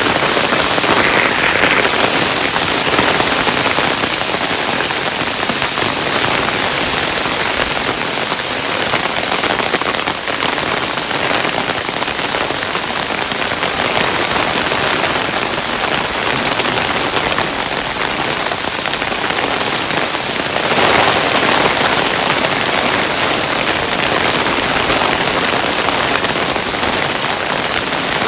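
Hailstones falling steadily, a dense continuous patter of many small impacts, swelling slightly twice.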